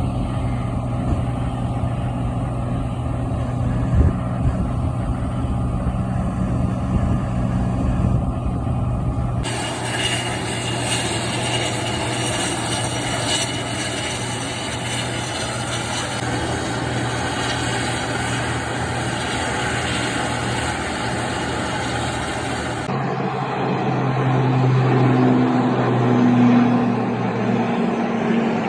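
Steady engine hum with a strong low drone. The sound changes abruptly twice, at about a third of the way in and again near the end, as if the recording is cut between takes.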